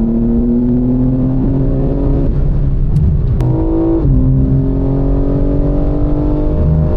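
BMW M4 Competition's twin-turbo inline-six running under load through a loud exhaust, its pitch climbing steadily as the car accelerates. About three and a half seconds in the note jumps briefly, then settles lower and keeps climbing, with two sharp clicks around that point.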